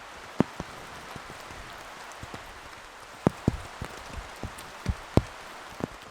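Steady rain, with large drops landing one by one close by as sharp ticks and pats, several louder ones scattered irregularly through it.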